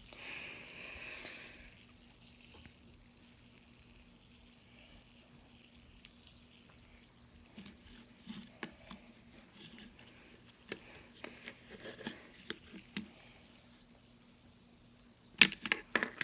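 Fidget spinners spinning with a faint whir, with scattered light clicks and ticks, then a quick run of sharp clicks about a second before the end as they are handled or stopped.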